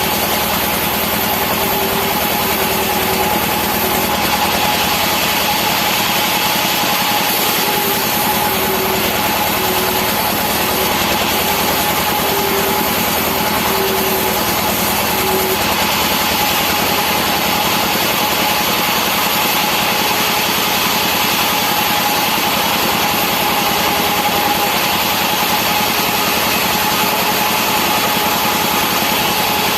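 Two-stroke chainsaw engine running steadily, with a constant high whine.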